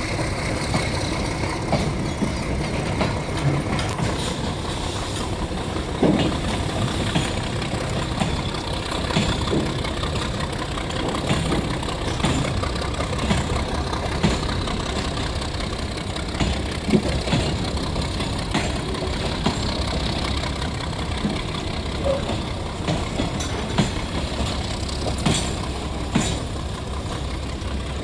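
Shunting locomotive's engine running steadily, with irregular clanks and knocks throughout.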